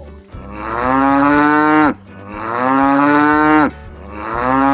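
Cow mooing three times in a row. Each moo is a long, drawn-out call of about a second and a half that drops in pitch as it ends, and the third is still going at the end.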